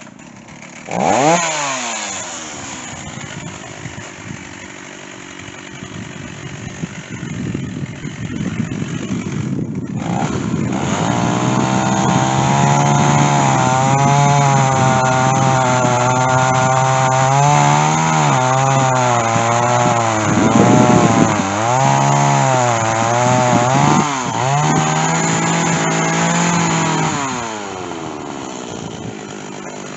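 Stihl chainsaw revving up sharply about a second in, then running lighter before cutting into white oak under load from about ten seconds. The engine pitch sags and recovers several times, as a dull chain drags in the hardwood, and eases off near the end.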